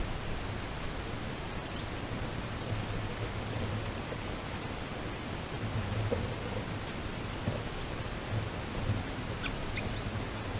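A few brief, high-pitched bird chirps over a steady hiss, ending in a quick run of sweeping calls near the end.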